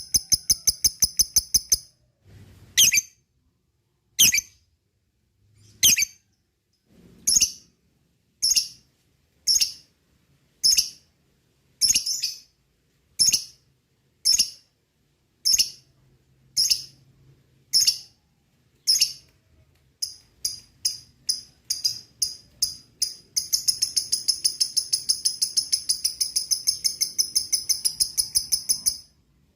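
Lovebird calling: a short fast chattering trill at the start, then sharp single shrill chirps about once a second. The chirps quicken after about 20 seconds and run into a long, rapid ngekek trill for the last six seconds or so.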